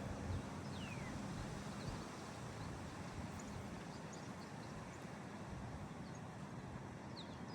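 Steady outdoor background noise with a faint low hum, and a faint bird whistle falling in pitch about a second in, with a few tiny chirps later.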